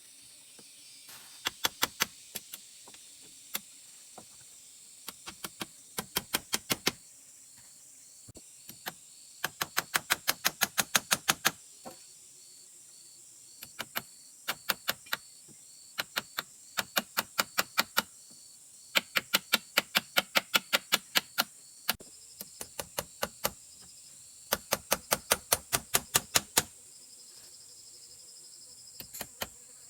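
Sharp knocks in quick runs of about six a second, each run lasting a second or two with short pauses between, over a steady high insect drone.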